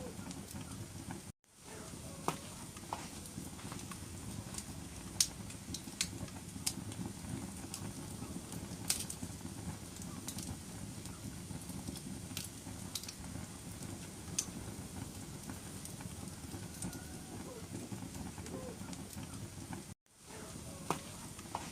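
Wood fire burning in a fireplace: a steady low rumble of flames with irregular sharp crackles and pops. The sound drops out briefly twice, about a second and a half in and near the end.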